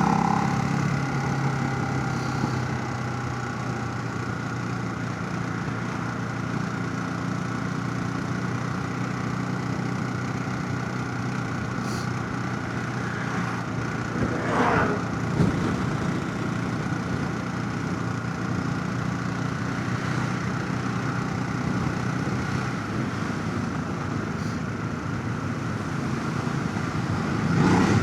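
Motorcycle engine running at a steady cruise, heard from a helmet chin mount along with wind and road noise. About halfway through there is a brief swell that rises and falls in pitch.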